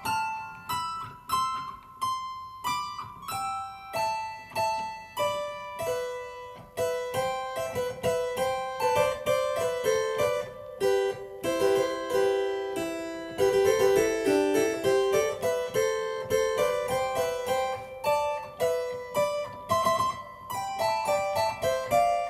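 Harpsichord playing an unhurried melody of single plucked notes, each bright and quickly decaying. The notes come faster and lower in the middle, then thin out again toward the end.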